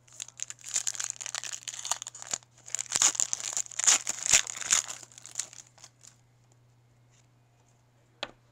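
Foil trading-card pack torn open and its wrapper crinkled: a dense run of crackling and tearing for about six seconds, then quiet apart from a single click near the end.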